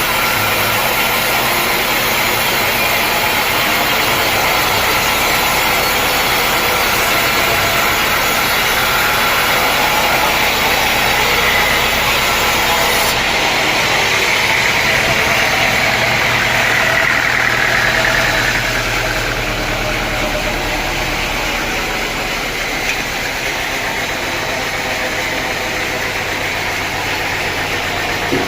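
Engine running steadily, with a higher whine in the middle that slowly falls away; the sound drops a little in level about two-thirds of the way through.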